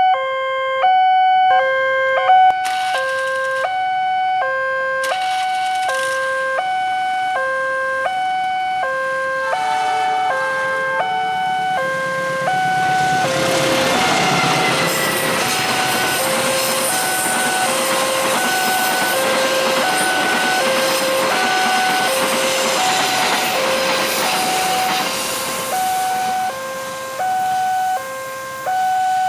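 Electronic level-crossing warning alarm sounding its two alternating tones in a fast, steady high-low pattern. About halfway through, a passing train's rolling noise swells over the alarm and then fades away, while the alarm keeps sounding.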